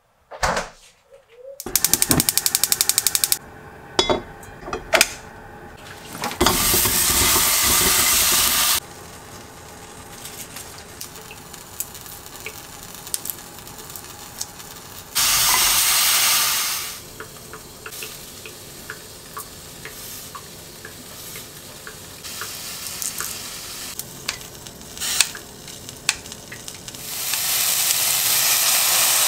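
Food frying in a pan, sizzling loudly in three spells, the last with cherry tomatoes being stirred with a wooden spoon. Small clicks and knocks of kitchen handling come in between, and there is a fast, even rattle for about a second and a half near the start.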